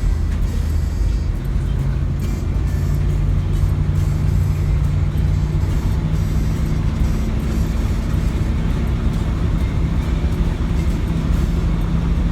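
Engine and road noise of a converted school-bus food truck driving, a steady low drone, with music playing over it.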